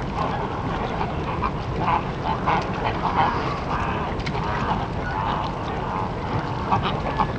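Birds calling: a run of short, repeated calls, some rising and falling in pitch, over a steady noisy background.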